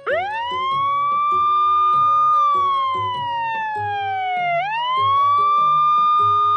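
Ambulance siren wailing: the pitch shoots up at the start, holds, slides slowly down, then climbs again about four and a half seconds in.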